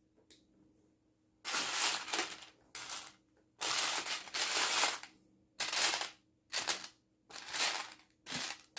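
Lego plastic bricks being handled and pressed together: about seven separate bursts of plastic scraping and rattling with short pauses between.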